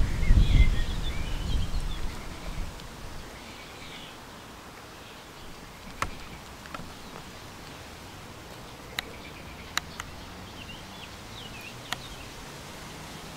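Faint high chirping bird calls outdoors, with a low rumble of wind on the microphone over the first two seconds and a few sharp clicks later on.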